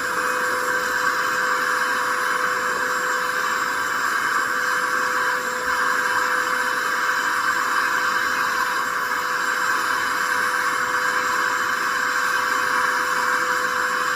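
Wet and dry vacuum cleaner running steadily with a surgical-mask filter attachment fitted over its exhaust port: a steady hiss with a constant whine, briefly dipping about five and a half seconds in. The motor runs normally with the attachment on.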